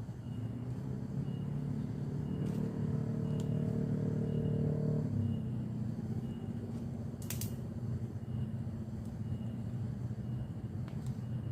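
A motor runs steadily with a low hum. Its pitch rises and strengthens for a couple of seconds, then drops back about five seconds in. A sharp click comes about seven seconds in.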